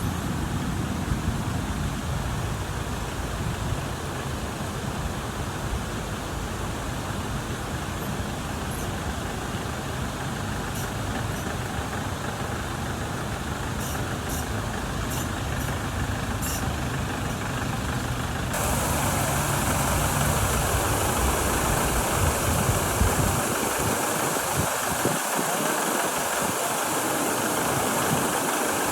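Mahindra CJ 500 DI jeep's diesel engine running as it drives off-road, a steady engine note with a few sharp ticks or rattles in the middle. About two-thirds of the way in, the sound changes abruptly and gets louder.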